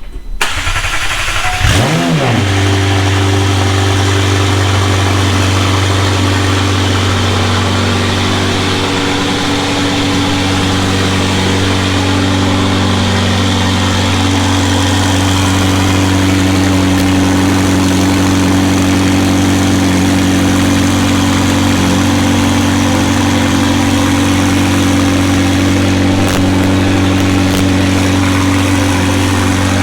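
McLaren 720S's freshly swapped 4.0-litre twin-turbo V8 cranking and catching about two seconds in, flaring briefly, then settling to a steady idle.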